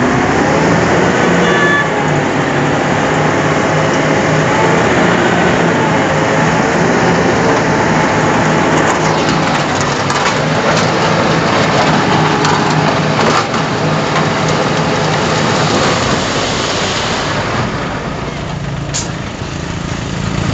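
Komatsu D31 bulldozer running loud and steady under load, with clanking and rattling around the middle.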